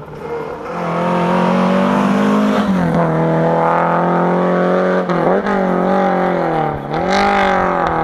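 Rally car engine at high revs under hard acceleration, getting louder in the first second. Its note drops and climbs back three times as it changes gear.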